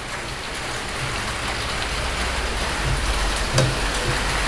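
Steady hiss of rain falling. A single sharp click about three and a half seconds in, as the wiper blade is unclipped from its arm.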